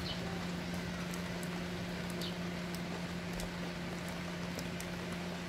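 Steady rain with scattered drips pattering, over a constant low hum; twice a brief high chirp.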